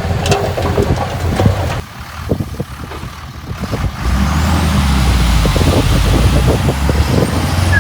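Heavy diesel engine of earthmoving machinery running, with a spell of rattling knocks about two to four seconds in, after which the engine comes up to a louder, steady low rumble.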